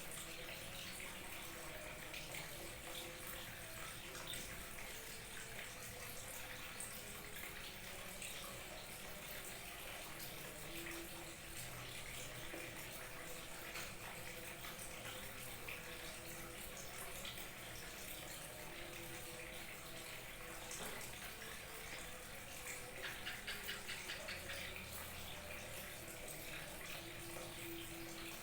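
Small waterfall trickling and splashing steadily, briefly a little louder about three quarters of the way through.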